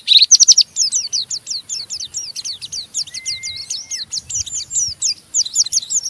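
White-eye (pleci) singing its rapid 'ngeriwik' chatter: a fast, unbroken run of high, quick down-slurred chirps, about eight a second, loudest at the start. About three seconds in, a single steady whistle is held for about a second beneath the chatter.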